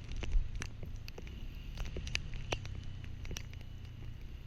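Scattered raindrops tapping on the microphone over a low, steady rumble.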